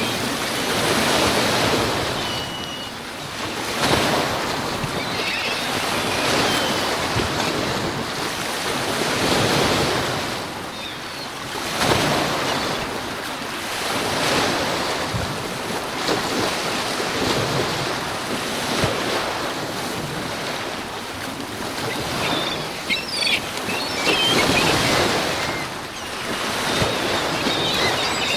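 Waves breaking on Lake Michigan's shore in high wind, the surf swelling and falling every couple of seconds, with wind rushing over the microphone.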